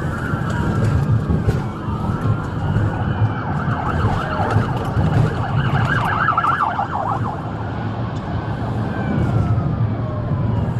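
Police car sirens wailing, several overlapping, with a fast yelp about halfway through, over the low rumble of engines and road noise.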